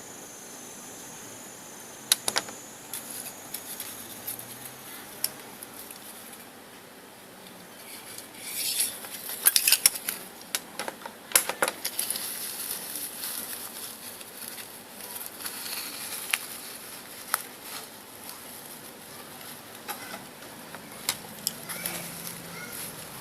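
Small metal parts clinking and tapping as they are handled, in scattered sharp clicks with a denser cluster about halfway through.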